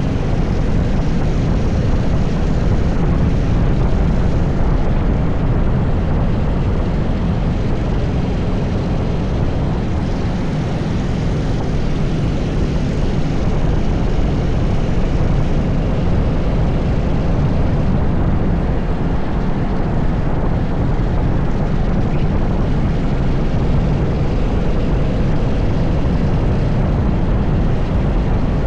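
80cc go-kart engine running steadily, heard onboard under heavy wind noise on the microphone.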